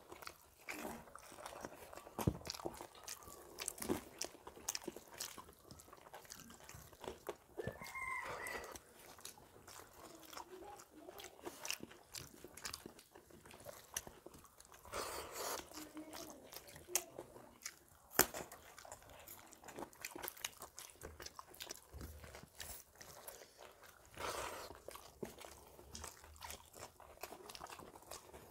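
Two people eating rice and fried brinjal with their hands: close-up chewing and mouth sounds, with frequent short sharp clicks scattered throughout.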